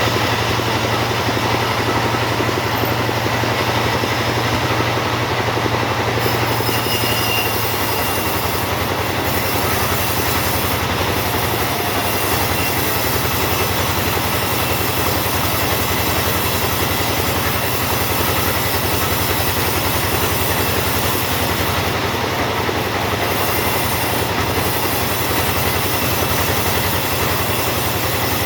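Two-stroke chainsaw running steadily at high revs under load, sawing teak wood.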